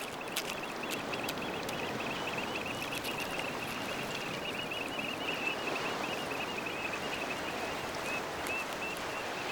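Steady wash of seawater over a rocky shore, with a faint, continuous high twittering over it and a few sharp taps scattered through the first few seconds.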